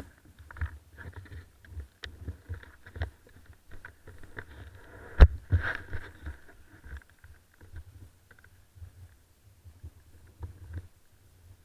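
Muffled, irregular thumps and knocks picked up through an SJ4000 action camera's body, with a faint steady whine behind them. One sharp knock about five seconds in is the loudest.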